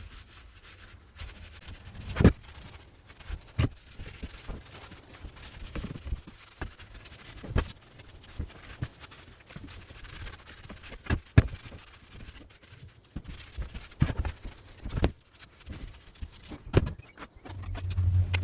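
Irregular knocks and light taps from drill press parts being handled during cleaning, with faint rubbing between them.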